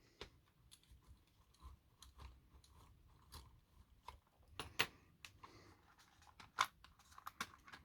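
Small screwdriver driving a tiny screw into a model locomotive's plastic chassis: faint, irregular clicks and scrapes, with a few sharper clicks in the second half.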